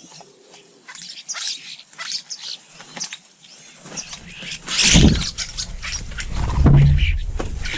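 Small garden birds chirping and twittering at the feeders. From about four seconds in, a louder low rumble with knocks and bumps sets in, strongest near the middle and again toward the end.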